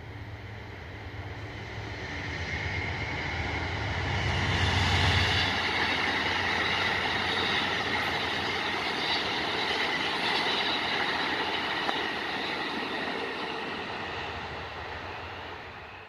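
A train passing at close range. A diesel locomotive's engine rumble builds to its loudest about five seconds in, then the rail cars roll by with a steady rush and a high whine from the wheels, easing off near the end.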